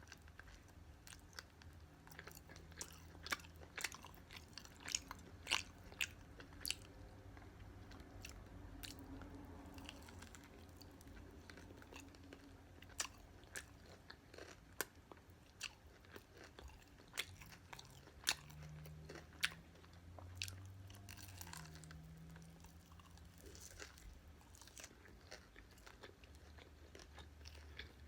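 Close-up chewing of crispy fried chicken, with sharp, irregular crunches of the fried coating that come in bunches early on and again in the middle.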